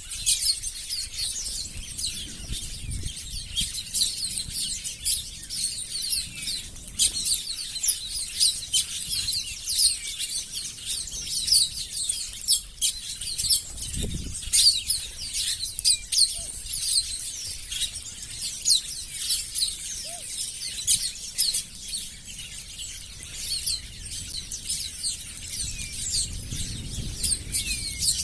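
A flock of small birds chirping densely and without pause, many calls overlapping, with occasional soft low fluttering of wings.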